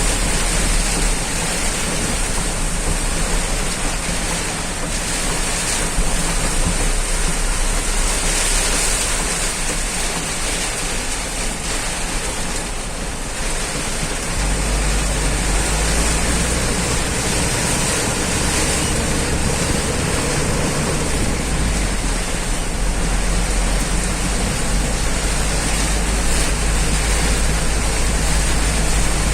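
Heavy downpour with strong wind: a steady roar of rain, with gusts buffeting the microphone as a shifting low rumble.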